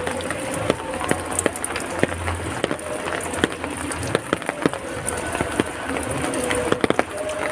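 Heavy rain falling steadily, a continuous hiss dotted with many sharp, separate drops and drips striking.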